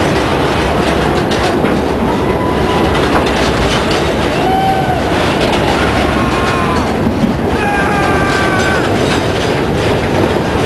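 A train running over the rails close by, its wheels clattering steadily, with brief high-pitched squeals now and then.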